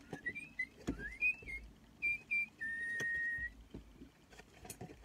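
Little Live Pets Tweet Talking Bird toy chirping electronically: a run of short rising chirps, then one held whistle note about halfway through.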